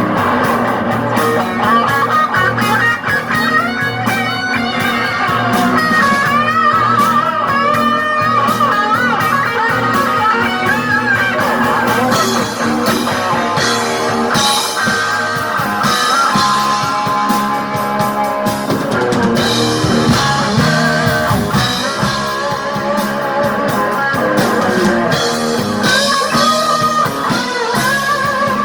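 Blues-rock music led by a guitar playing wavering, bent lead lines over bass and drums.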